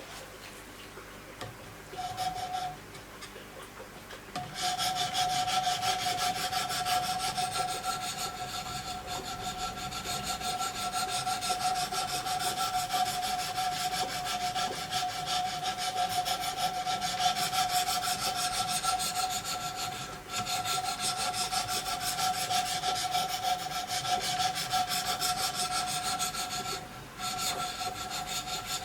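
Diamond stones of a Wicked Edge guided sharpening system rubbing rapidly along the edge of a steel knife blade, with a steady ringing note. After a short burst about two seconds in, the stroking runs on continuously from about four seconds, pausing briefly twice near the end.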